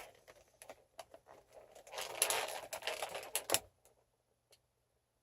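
Handling noise: scattered light clicks and a rustle from about two to three and a half seconds in, then near quiet.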